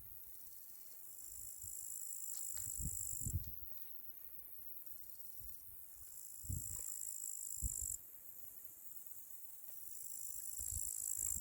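Crickets trilling in high, steady bouts of about two seconds that start and stop three times, with a few low thuds between them.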